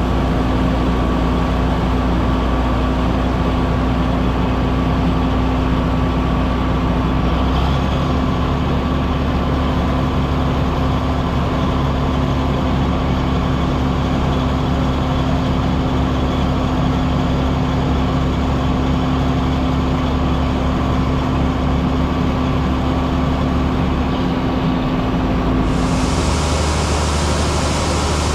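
Heavy farm machinery running steadily, a loud engine drone with a steady hum over it; the low drone shifts about a third of the way in and again near the end.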